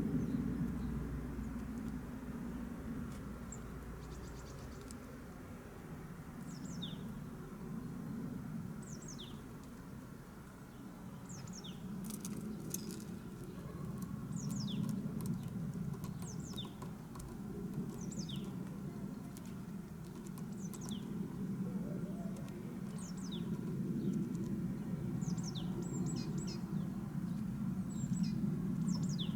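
Small bird calling: short high notes that slide downward, repeated every second or two, over a steady low rumble.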